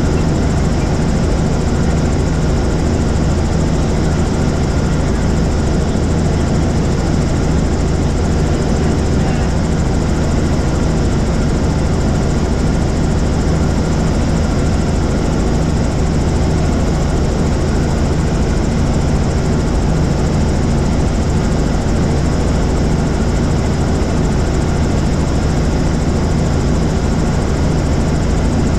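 Helicopter in flight: steady engine and rotor noise, an even drone with a low pulsing hum that does not change.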